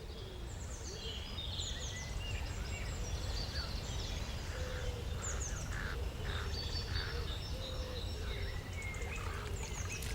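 Outdoor ambience: several birds singing and calling, with repeated short chirps and trills, over a steady low rumble of wind.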